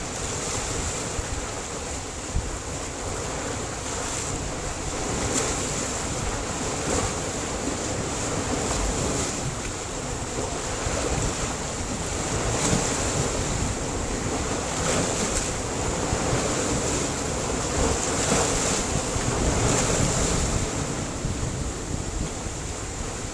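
Sea surf washing onto a rocky shore: a continuous rush of waves that swells louder and eases off every few seconds, with a deep rumble underneath.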